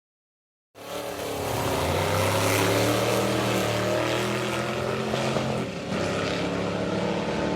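Vintage drag-race car engine running at a steady pitch. It cuts in abruptly just under a second in, with a brief dip in level near the end.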